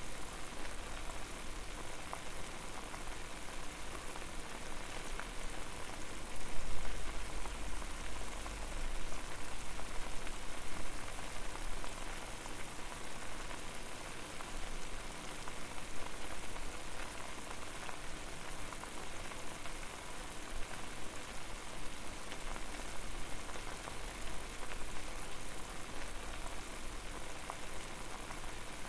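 Water boiling over a fire: a steady dense bubbling with many small pops, and a low rumble that swells briefly about six seconds in.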